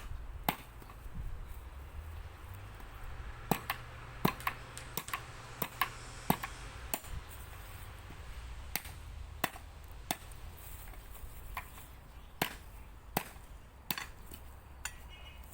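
Chopping: irregular sharp strikes, some in quick pairs, over a steady low rumble of wind on the microphone.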